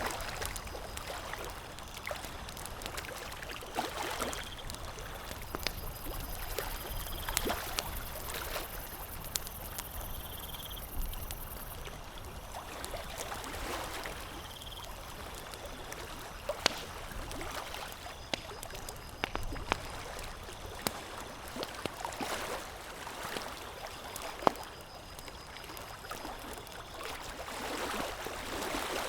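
Campfire crackling: a steady hiss broken by frequent sharp pops and snaps of burning wood, a few of them louder, such as one about two-thirds of the way in.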